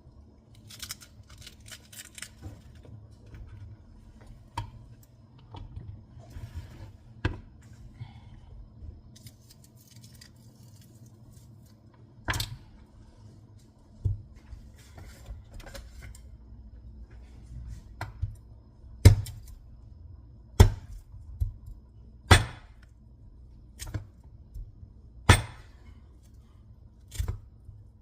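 Light kitchen clatter, then a knife chopping down onto a cutting board in single sharp knocks about every one and a half seconds through the second half.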